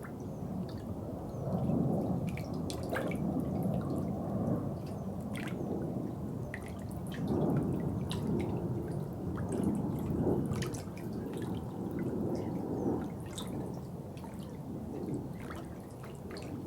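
Water gurgling and dripping, with many small drips and splashes over a low rushing that swells and fades every second or two.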